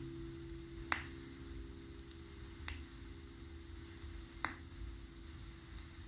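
Vinyl record surface noise between the music: a sharp click about every 1.8 s, once per turn of a 33⅓ rpm record, over a faint low hum. The last sustained note of the song fades underneath.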